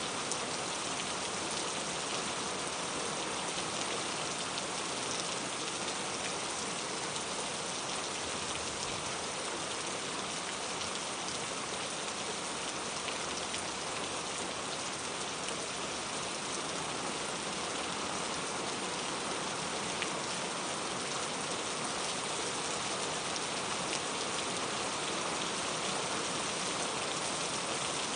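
Steady rain falling on a surface, a constant hiss with many fine drop patters.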